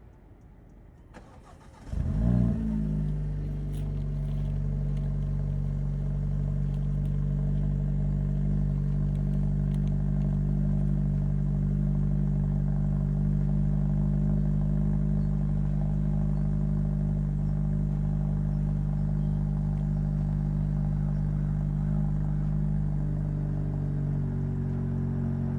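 Cold start of a car's 1.6-litre turbocharged four-cylinder engine: a short crank about a second in, then it catches with a brief rev flare and settles into a steady, fast cold idle that eases down slightly near the end.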